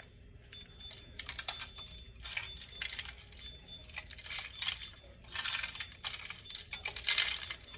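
Hands rubbing seasoning into the skin of a raw whole chicken: an uneven run of short, soft, clicky smacks and squishes.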